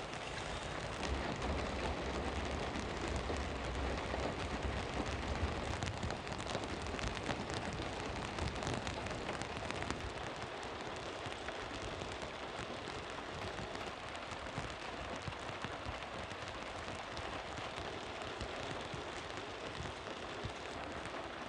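Steady rain falling, with scattered drops ticking. A low rumble sits underneath for about the first ten seconds.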